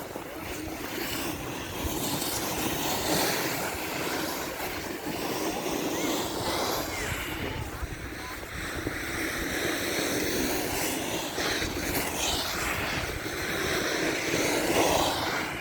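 Steady rushing wind noise that swells and eases.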